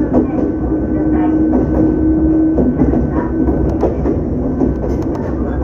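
Ohmi Railway electric train running on jointed track, heard from the cab: a steady rumble, with a humming tone held for about two seconds from about half a second in, then the wheels clicking over the points and rail joints around three to four seconds in.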